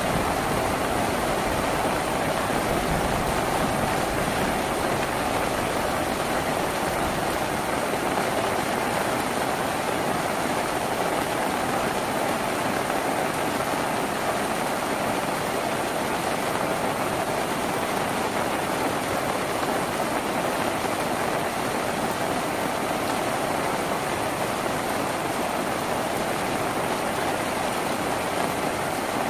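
Rain falling steadily on a tin roof, an even, unbroken hiss.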